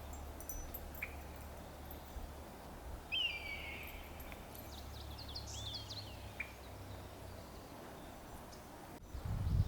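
Quiet forest ambience: scattered bird calls and chirps over a steady low hum, with a buzzy call about three seconds in and a cluster of chirps a couple of seconds later. Just before the end the sound changes abruptly to a louder low rumble.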